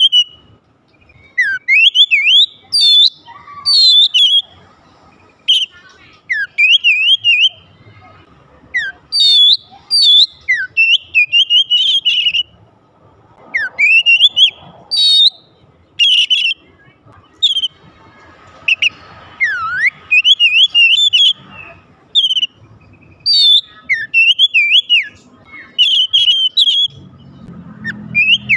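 Oriental magpie-robin (kacer) singing: loud phrases of sliding whistles and quick chattering notes, in bursts of one to two seconds separated by short pauses.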